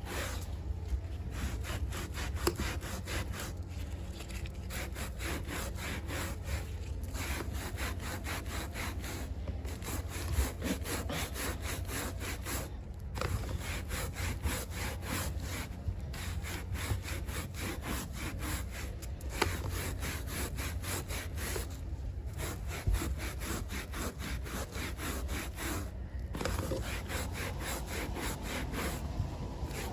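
Carpet being scrubbed by hand in quick, repeated rasping strokes, with a short break about every three seconds, over a steady low hum.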